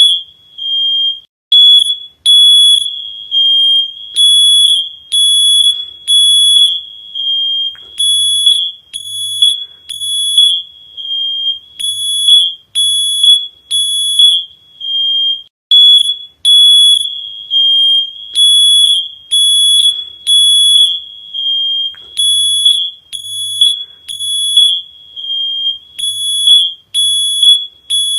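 A high-pitched electronic alarm sounding continuously, with loud beeps repeating roughly twice a second over a steady tone.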